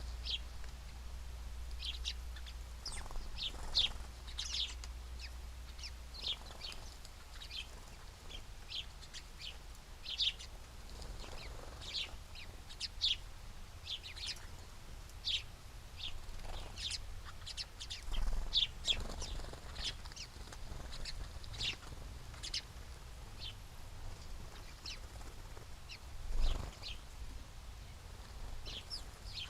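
Small birds chirping at a feeder: many short, high chirps scattered through, at times several a second, over a low rumble, with a couple of brief low thumps, one about two-thirds of the way in and one near the end.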